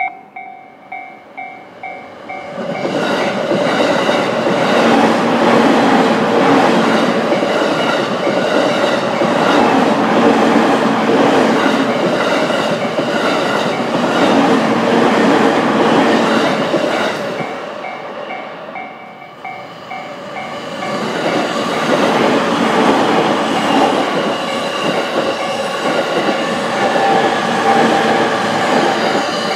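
Japanese railway crossing warning bell ringing in quick, even dings. About two seconds in it is drowned out by a train passing. The bell is heard again briefly near twenty seconds before a second train passes.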